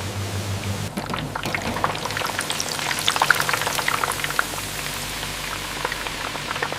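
Jackfruit slices deep-frying in an industrial fryer: hot oil sizzling and bubbling with a dense crackle of small pops. A low machine hum drops away about a second in, and the crackling grows thicker after that.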